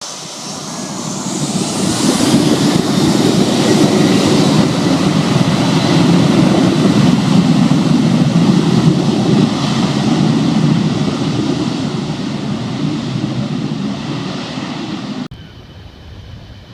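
Aircraft engines with a loud, dense rumble and a faint high whine rising in pitch as the sound swells over the first two seconds. It stays loud, then gradually fades, and near the end cuts off sharply to a much quieter background.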